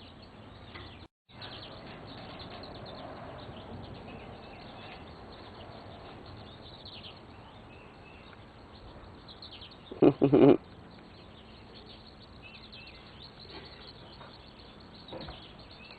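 Faint outdoor background with scattered short, high bird chirps. About ten seconds in there is a brief, louder voice-like sound.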